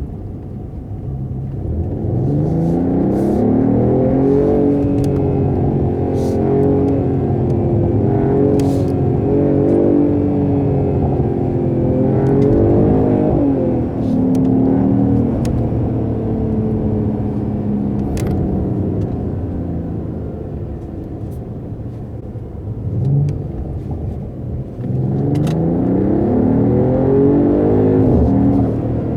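Mercedes-AMG GT43 4-Door Coupé's turbocharged inline-six pulling under acceleration, its pitch climbing through the revs several times with drops between as it shifts and eases off. It settles lower for a stretch in the middle, then climbs hard again near the end.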